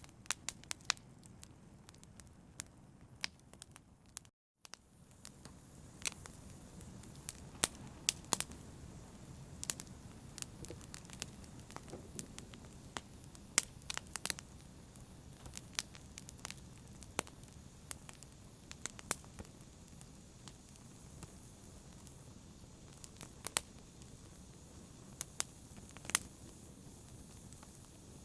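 Campfire crackling: irregular sharp snaps and pops over a steady low hiss of burning wood. The sound cuts out completely for a split second about four seconds in.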